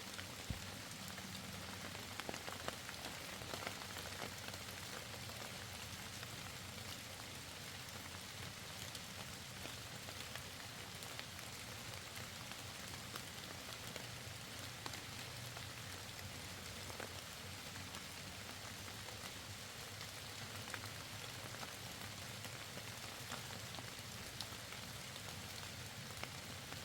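Steady rain falling, with a constant hiss and scattered drops ticking on nearby surfaces.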